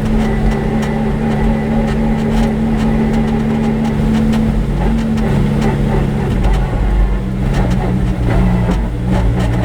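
Lamborghini Huracán race car's V10 engine running loud at a fairly steady speed; its pitch drops a little about halfway through. Short clicks and rattles are scattered through the sound.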